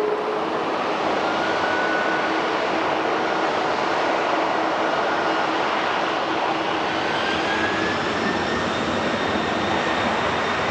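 Jet airliner's engines passing close by: a loud, steady rush of jet noise with thin whining tones that slowly rise in pitch.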